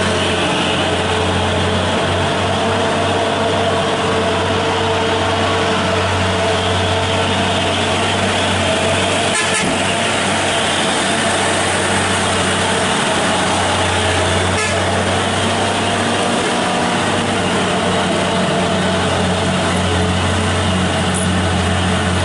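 Truck engine running steadily at an unchanging pitch, a low drone.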